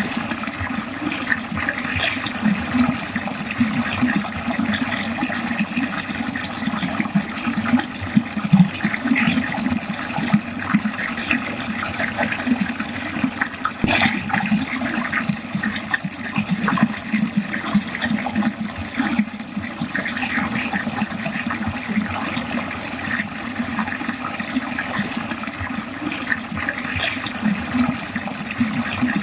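Water running and gurgling down a drain in a steady, continuous flow, with one brief sharper splash about halfway through.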